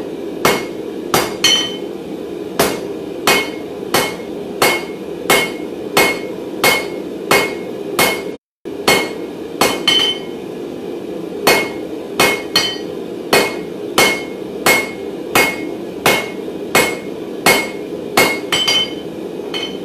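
Hand hammer striking hot mild steel bar on an anvil in a steady rhythm, about one and a half blows a second, each blow ringing briefly, while a fire poker is drawn out. A steady hum runs underneath.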